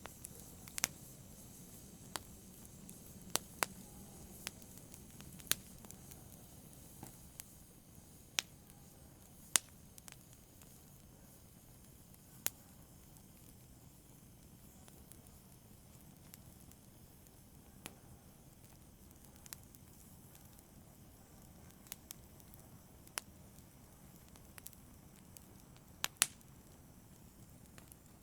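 Fire crackling: sharp, isolated pops at irregular intervals, roughly one every second or two, over a faint low hiss, with a quick double pop near the end.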